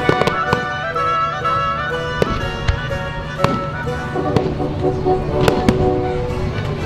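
Display fireworks going off, with irregular sharp bangs and crackles scattered throughout, over music with held notes.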